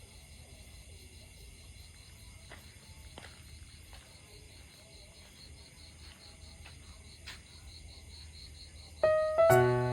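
Insects, likely crickets, chirring steadily in a high-pitched evening chorus, with a few faint ticks. About nine seconds in, loud keyboard music with plucked, piano-like notes begins.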